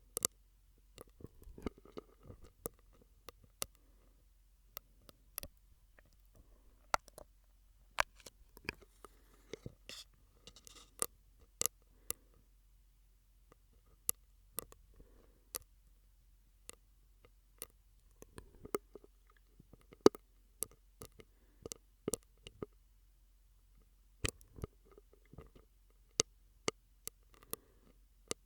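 Close-miked ASMR mouth sounds made through a drinking straw: irregular wet clicks and pops, with brief soft breathy or smacking sounds between them.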